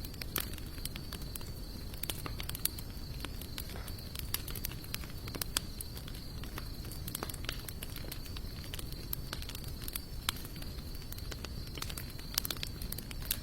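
Wood fire of sawtooth oak and mixed hardwood logs burning, with irregular sharp crackles and pops over a low steady rush of flame. A faint steady high tone runs underneath.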